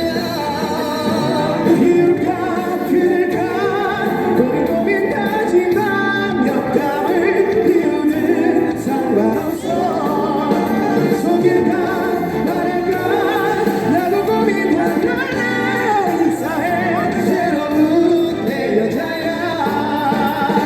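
A pop song performed live: singing over a loud musical accompaniment, with wavering melodic vocal lines throughout.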